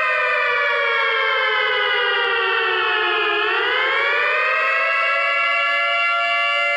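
Fictional Emergency Alert System alarm: a loud siren-like chord of several tones that glides down in pitch for about three seconds, sweeps back up over the next second or two, then holds steady.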